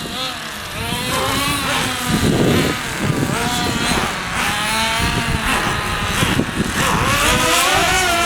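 Nitro RC car engines (small glow-fuel two-strokes) running and revving, their high buzzing pitch repeatedly rising and falling with the throttle.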